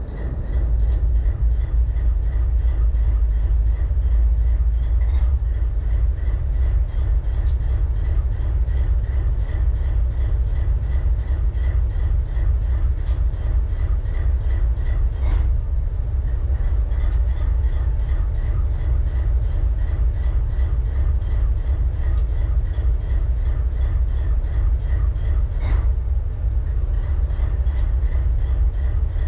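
Diesel-electric freight locomotive's prime mover idling with a misfire: a deep, steady, pulsing rumble. A few sharp pops or knocks sound every few seconds.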